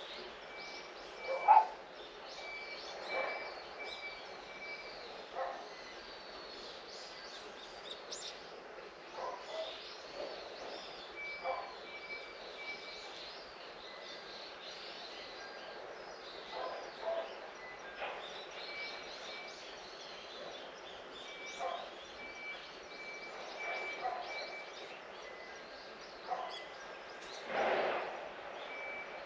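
Several birds chirping and calling at once, with many quick high twitters. A steady high trill comes and goes, and a louder call stands out about a second and a half in and again near the end.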